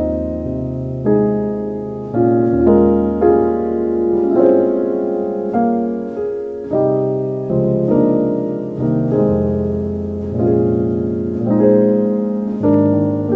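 Slow, gentle solo piano music: chords and melody notes struck every second or so, each ringing and fading away.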